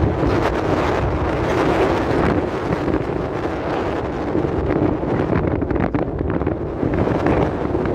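Strong wind buffeting the microphone, a loud, gusting rush of noise.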